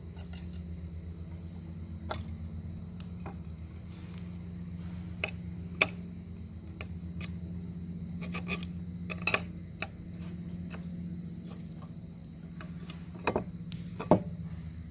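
Bacon sizzling over a crackling wood fire: a steady high hiss with scattered sharp pops and crackles, the loudest near the end.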